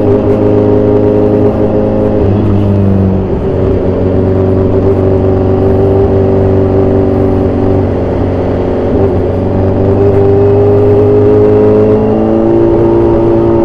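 Inline-four engine of a 2014 Kawasaki Z1000 Sugomi with an aftermarket exhaust, running under way. Its pitch drops at a gear change about two seconds in, climbs slowly as the bike pulls, and drops again at another shift near the end.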